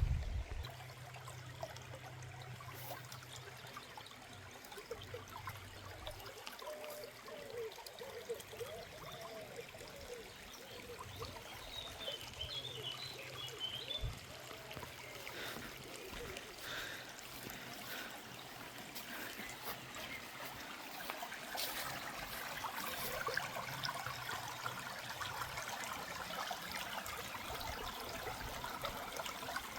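Small stream of water trickling and flowing downhill, a steady gurgling rush.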